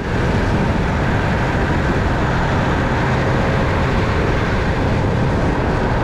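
Honda CB500X parallel-twin motorcycle being ridden at a steady pace: a constant mix of engine and wind noise on the on-board microphone, without revving up or down.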